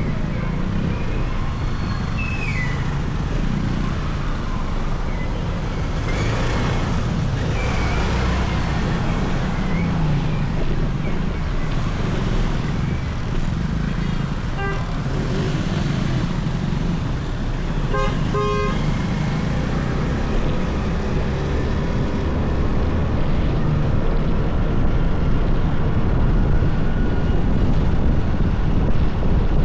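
Motorcycle running at riding speed through city traffic, a steady low rumble of engine and road noise. A vehicle horn toots briefly about halfway through, then twice in quick succession a few seconds later.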